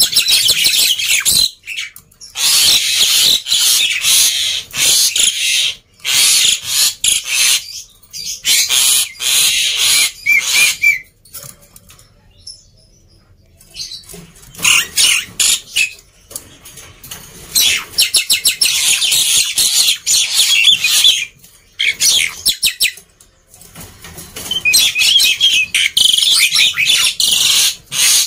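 Black-winged starling (jalak putih) calling in loud, harsh, rasping chatter. It comes in bouts of a few seconds with short pauses between, and a longer pause of about two seconds near the middle.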